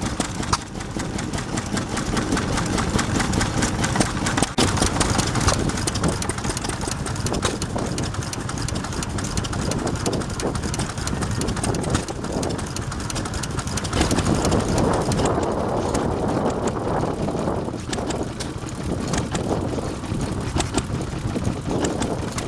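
Stationary engine running steadily, its firing beat even throughout.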